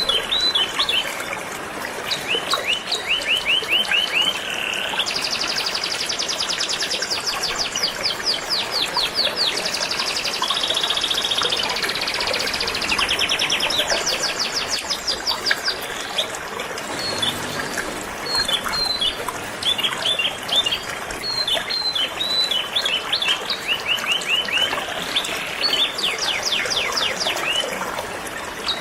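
Canary singing in long runs of rapid trills and chirps over the steady rush of flowing river water.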